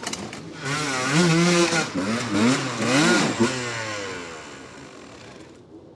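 Enduro dirt-bike engine revving hard, the throttle blipped so the pitch swings up and down about twice a second, then dying away over the last couple of seconds.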